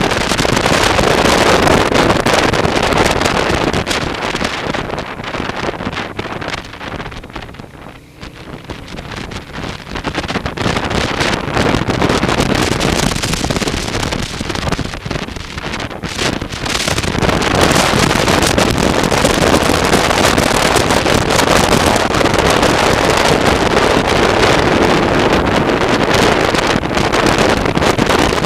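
Wind rushing over the microphone of a moving motorcycle, with engine and road noise under it. The rush fades to a low about eight seconds in, then builds back up and stays loud.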